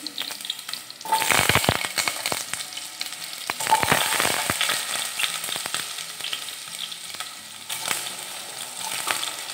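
Potato chunks frying in hot mustard oil in a pot, sizzling and crackling. The sizzle flares up loudly about a second in and again near four seconds, as more pieces go into the oil, then settles to a steady hiss.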